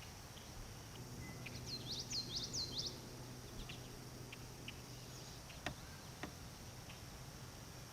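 Faint night-time outdoor ambience: a steady high chorus of insects, broken about one and a half seconds in by a quick run of about six high, falling chirps. A faint low hum runs underneath, and two sharp clicks come near six seconds.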